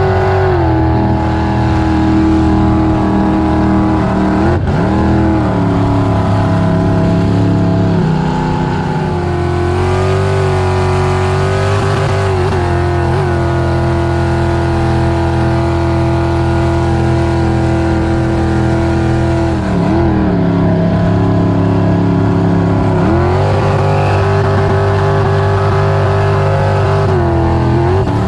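An engine running at a steady speed, its pitch dipping and rising briefly several times as the revs change.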